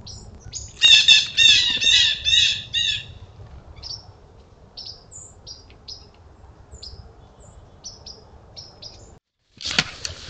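Wild birds calling: a loud run of about six harsh, repeated calls early on, then scattered short high chirps. Near the end the sound cuts out for a moment and a rustling noise starts.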